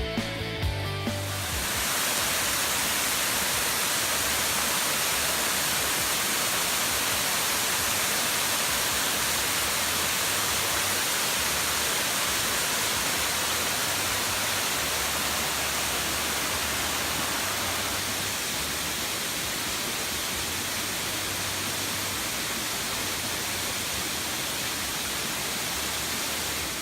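Waterfall's steady rush of falling water, loud and unchanging, taking over as music fades out about a second and a half in; faint low music notes continue underneath.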